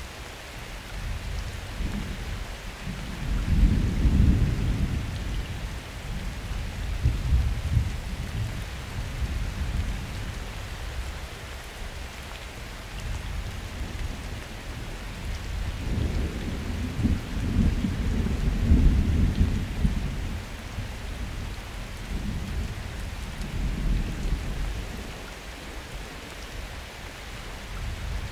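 Steady summer rain with two long rolls of distant thunder, the first building a couple of seconds in and fading, the second rolling through the middle and latter part.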